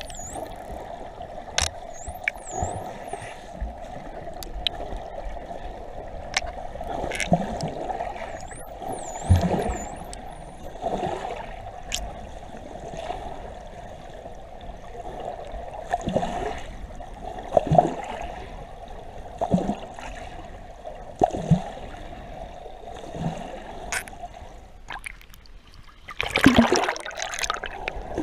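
Water gurgling and sloshing around a camera in the sea, surging every couple of seconds, with a louder burst of splashing near the end. Dolphins whistle in a run of quick, high, looping whistles early on and again about a third of the way in, with scattered sharp clicks.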